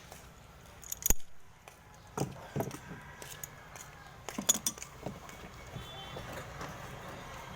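Scattered knocks and metallic clinks as a stiff, stuck drain part is worked at by hand to open it. One sharp knock about a second in is the loudest, with a few more around two and four and a half seconds.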